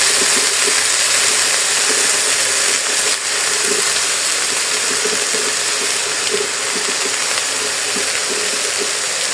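Steady sizzling hiss of chopped callaloo steaming down in a hot pot with butter.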